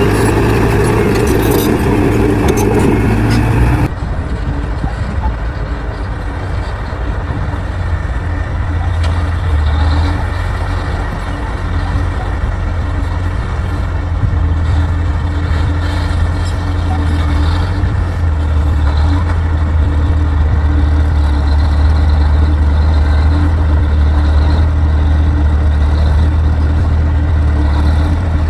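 Bulldozer's diesel engine running steadily, a strong deep drone. About four seconds in, the sound changes abruptly from a brighter, higher-pitched engine sound to this lower drone.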